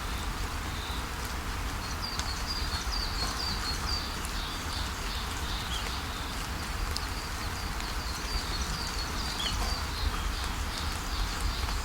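Steady rain falling, with a small bird giving short, high chirps over and over from about two seconds in.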